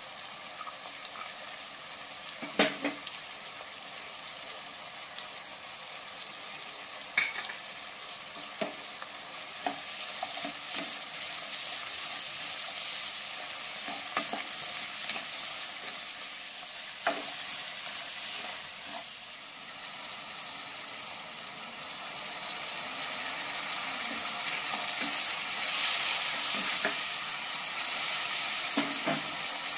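Onions, tomatoes and spices sizzling in hot oil in a nonstick kadai while being stirred, with a few sharp knocks of the spatula against the pan. The sizzle grows louder over the last few seconds.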